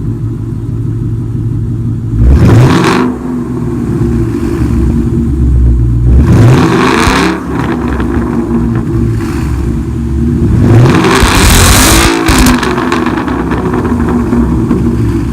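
2017 Ford Mustang GT's 5.0 V8 exhaust with the mufflers deleted and an H-pipe, idling and revved three times: about two seconds in, about six seconds in, and a longer rev about eleven seconds in, each climbing and falling back to idle.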